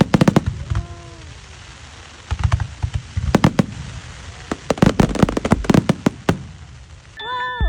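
Fireworks going off overhead: bursts of sharp bangs and crackles in several clusters, with lulls of a second or so between them.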